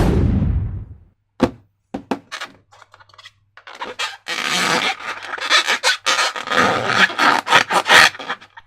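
Slime being handled and squished out of a transparent balloon: a loud rush of noise at the start that dies away within about a second, a few sharp sticky clicks, then several seconds of dense wet crackling and squelching.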